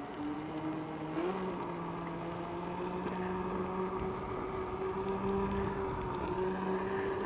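Electric unicycle's hub motor whining in steady tones while being ridden, the pitch stepping up a little about a second in as it picks up speed.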